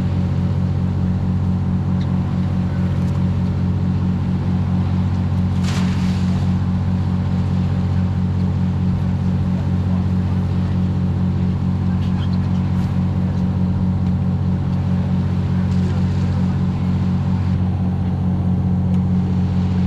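Charter boat's engine running steadily underway, a loud, even low drone with a fast pulse. A brief hiss cuts across it about six seconds in.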